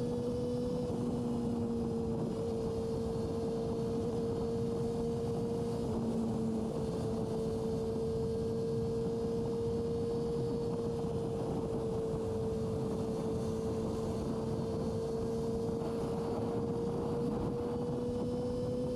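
Yamaha R6's inline-four engine running at steady revs while riding, its note holding nearly the same pitch with a slight dip and a small rise near the end, over a constant rush of wind and road noise.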